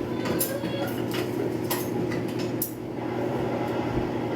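Steady low mechanical hum, like an appliance or fan running, with a few light knocks and clicks over it, as of things being handled in a kitchen.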